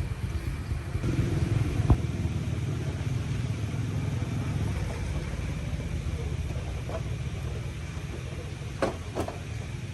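Engine running steadily with a low, pulsing rumble, with a sharp click about two seconds in and two more near the end.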